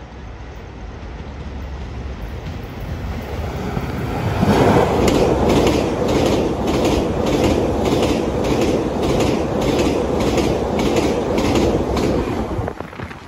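Taiwan Railway train approaching with a rising rumble, then passing close by from about four seconds in, its wheels clicking in a steady rhythm of about two to three clicks a second until it falls away near the end.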